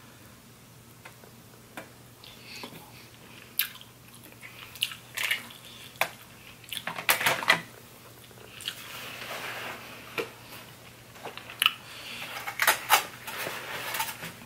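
Close-up eating sounds: chewing and wet mouth noises on crab legs and shrimp in butter sauce, with irregular sharp clicks and cracks. These are loudest about seven seconds in and again near the end.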